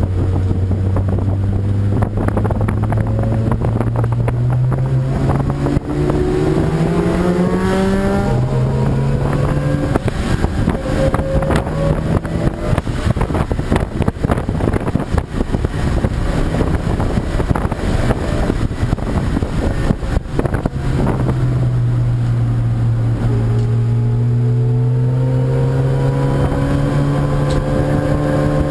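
Race car engine accelerating hard, its pitch climbing and dropping back at a gear change about a third of the way in, then climbing again from about three quarters of the way through, with wind buffeting on the microphone.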